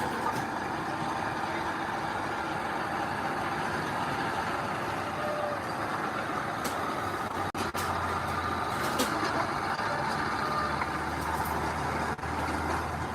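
Heavy diesel earthmoving machinery running steadily, with brief breaks about halfway through and near the end.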